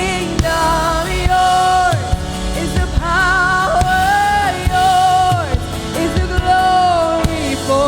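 Live worship music: a singer holding long, slightly wavering notes over a band with regular drum hits.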